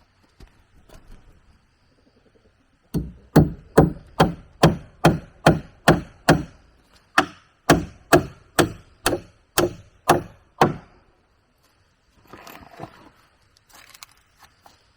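A hand tool striking wood in a steady run of about eighteen sharp blows, two to three a second, with a brief pause about seven seconds in. Softer scraping and rustling of wood follows near the end.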